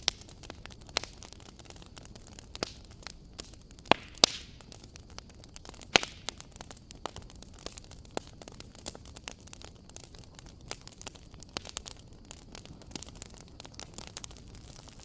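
Wood fire crackling in a fireplace: a soft steady hiss with frequent irregular snaps and a few louder pops.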